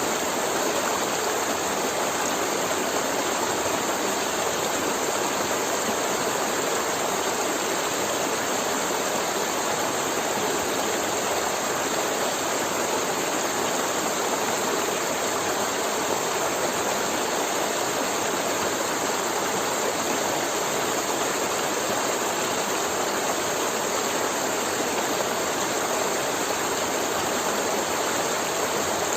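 River water flowing over rocks: a steady, even rushing and gurgling with no break.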